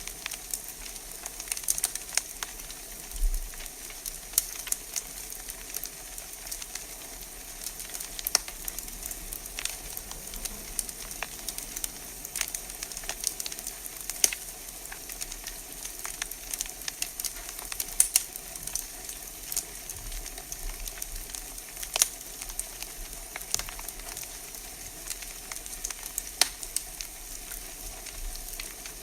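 Wood fire burning in a fireplace: a steady hiss with irregular sharp crackles and pops, a few of them louder snaps.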